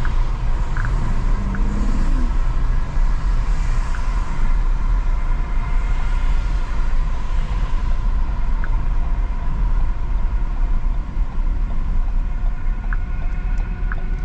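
Steady low rumble of a car heard from inside the cabin, with a few faint brief ticks.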